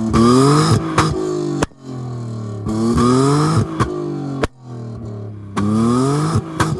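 BMW E34 exhaust through a cherry-bomb muffler as the engine is revved three times. Each time the pitch climbs and then falls back to a steady idle, with sharp cracks as the throttle closes.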